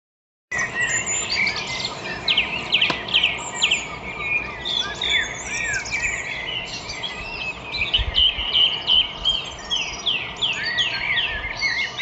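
Many birds chirping and whistling at once, a dense chorus of quick overlapping calls and trills. It starts abruptly about half a second in.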